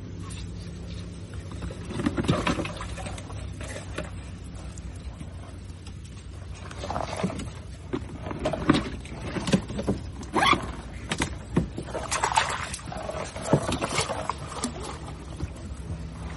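Water splashing and sloshing in irregular bursts, heaviest in the second half, as hands work through shallow water, over a steady low hum.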